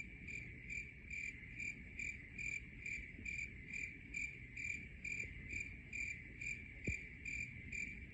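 Cricket chirping steadily and evenly, about two to three chirps a second, with a faint low rumble beneath.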